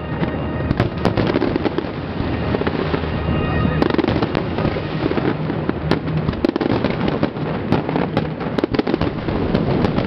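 Aerial fireworks shells bursting in a dense barrage, many overlapping bangs in quick succession, with show music playing underneath.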